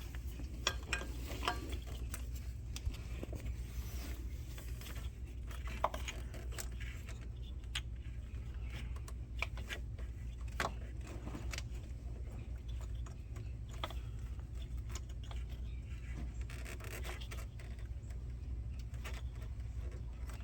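Handling noise of a greased coil-pack boot being pushed down into a spark plug well: scattered rubber and plastic scrapes, rubs and small clicks, over a steady low hum.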